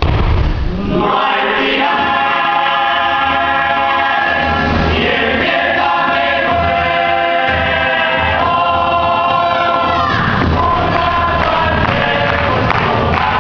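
A group of voices singing together in harmony, holding long notes, with musical accompaniment.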